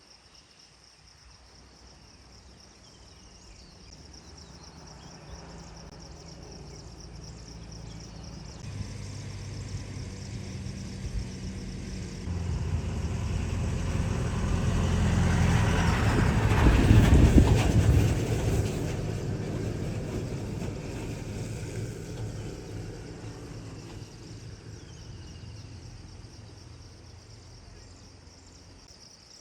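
A motor vehicle approaching, passing close about two-thirds of the way through, then fading away, its engine a steady low hum that grows and then fades.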